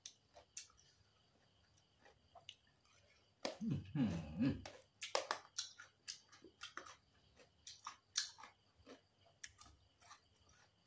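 Close-up chewing of green papaya salad and raw cucumber, with many short crisp crunches and wet mouth clicks. About three and a half seconds in there is a louder sound of about a second with a wavering pitch.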